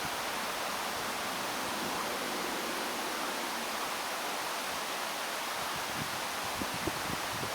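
Steady rushing noise of strong wind, with a few faint low thumps of gusts hitting the microphone near the end.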